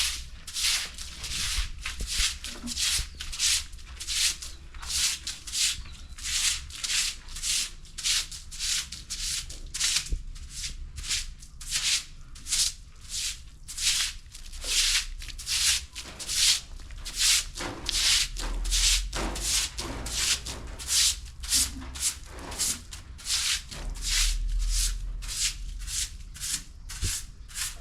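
Repeated brushing strokes across a hard surface, about two a second, in an even rhythm, as a patch is cleaned.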